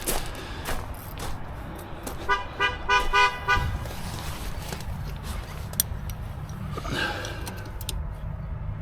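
A quick run of about five short, pitched beeps, about four a second, over a low steady rumble.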